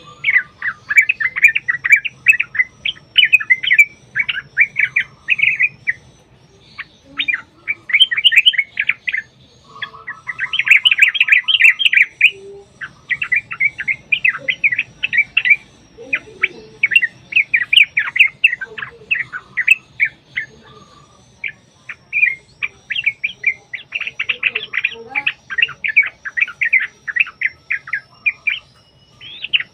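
Yellow-vented bulbuls (trucukan) singing long runs of rapid, chattering notes, broken by short pauses, with a brief lower buzzy trill partway through.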